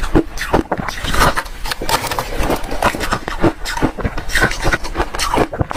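Hard refrozen ice being chewed, a close, loud, continuous run of sharp crunches and cracks, several a second.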